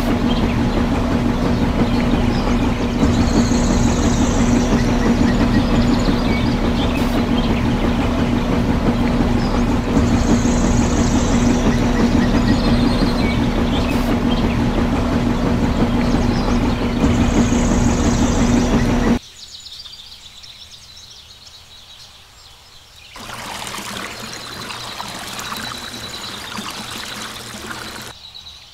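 Small electric motor of a miniature cement mixer running with a steady, even hum as the drum turns, cutting off suddenly about two-thirds of the way through. Near the end comes quieter pouring of wet cement as the drum is tipped.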